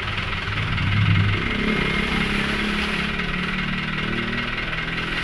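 A dump truck's engine is running. About a second in it rises in pitch and level, then holds at a higher, steady speed.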